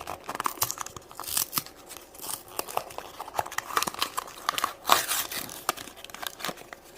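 Plastic toy packaging being torn open and crinkled by hand: irregular crackling and tearing rustles as a blind-bag surprise is unwrapped.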